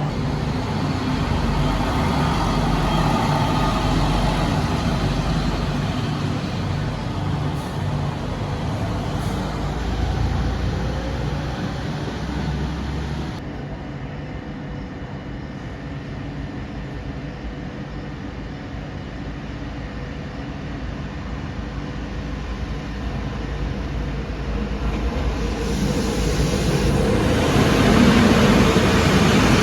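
Diesel railcar engine running with a steady low drone. About halfway through the sound changes abruptly, and near the end a broad rushing noise builds to its loudest.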